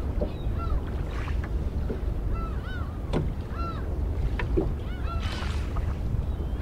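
Birds calling again and again, many short calls that rise and fall in pitch, several overlapping. A couple of light knocks, over a steady low rumble of wind and water around the rowboat.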